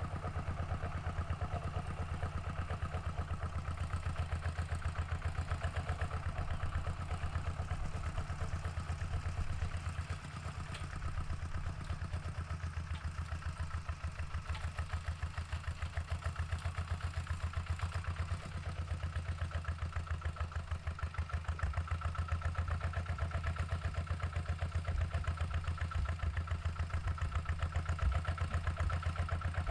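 Walking tractor's single-cylinder diesel engine running steadily as it pulls a plow, a fast, even chugging throughout.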